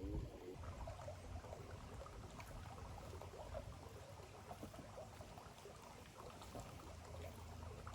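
Shallow creek water flowing and trickling, a steady faint burble.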